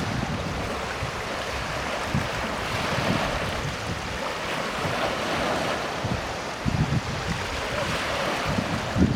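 Sea waves washing in a continuous rush, with wind buffeting the microphone in low gusts about two-thirds of the way in and again near the end.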